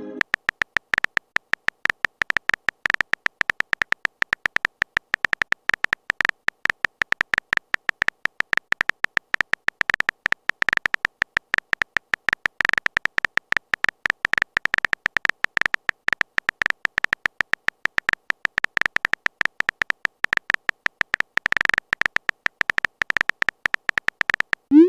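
Rapid, irregular string of short electronic beeping clicks at one steady high pitch, many per second without a break: the text-typing sound effect of an on-screen chat.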